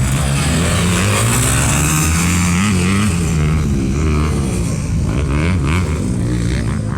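Motocross bike engine running, its pitch rising and falling again and again with the throttle.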